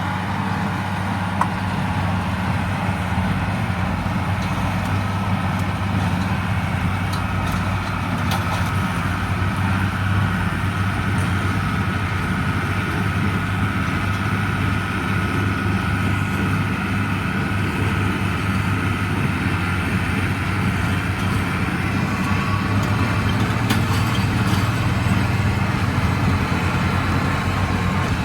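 1977 International Harvester 886 tractor's six-cylinder diesel engine running steadily under load, pulling a John Deere 348 square baler as it bales hay, with a few faint clicks from the machinery.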